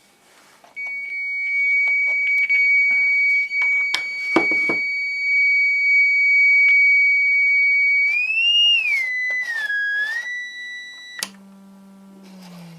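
A homemade audio signal generator sounds a steady, high-pitched tone through a small speaker. About eight seconds in, the pitch glides up, dips down and settles slightly lower, then the tone cuts off suddenly and a much lower, quieter tone follows.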